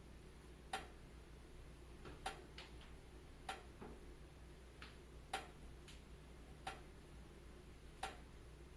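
Wood fire crackling: about ten sharp, irregularly spaced pops and snaps from the burning logs over a faint steady hiss.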